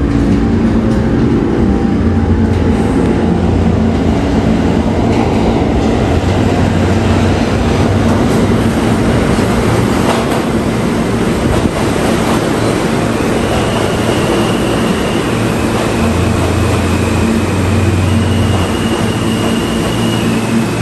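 New York City subway train running, a loud steady rumble of wheels on rails. From about two-thirds of the way through, high thin steady tones come in and step in pitch.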